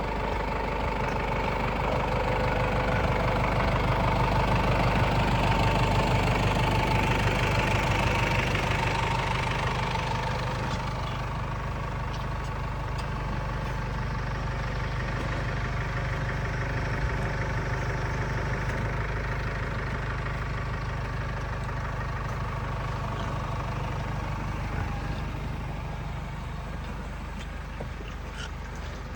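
Vehicle engine running steadily, growing louder during the first several seconds and then easing back to a lower steady level.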